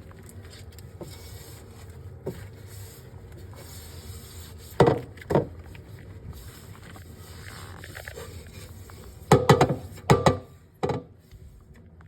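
A few sharp knocks and clatters, two about five seconds in and a quick cluster near the end, over a low steady hum.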